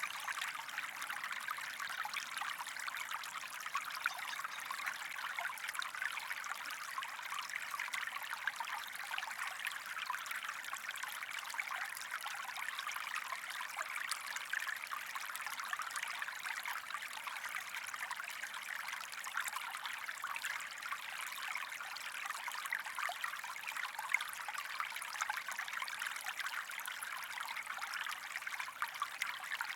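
Stream water running steadily over stones, a constant splashing trickle.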